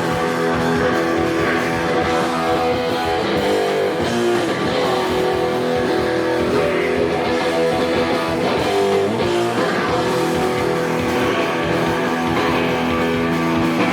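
Live hardcore band playing loud, distorted electric guitar and bass with drums, a full-band stretch of the song with no vocals.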